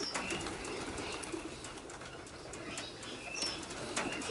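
Mixed aviary birdsong: doves cooing low while small birds chirp and twitter in short, high notes.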